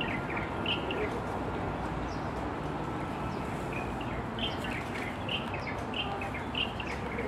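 Small birds chirping in short, high, repeated calls, a few at the start and then about one a second in the second half, over a steady background hiss and rumble of outdoor ambience.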